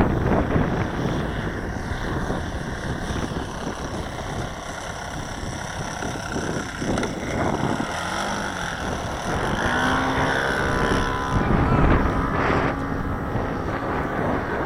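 Saito 180 four-stroke glow engine of a radio-controlled Mew Gull scale plane flying aerobatics, its note rising and falling as the plane manoeuvres, plainest in the second half. Wind buffets the microphone throughout.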